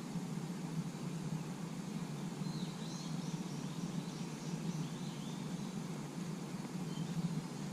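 A steady low rushing background with a small bird chirping several times in quick short notes, a few seconds in.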